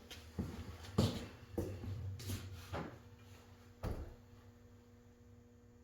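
About six knocks and clunks, roughly half a second apart over the first four seconds, from the wheel, tube and tools being handled and set down on a bench, then a faint steady hum alone.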